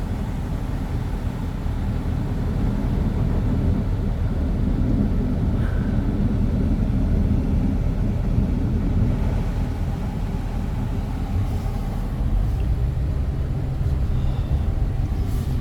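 Vehicle running as it drives slowly, a steady low rumble.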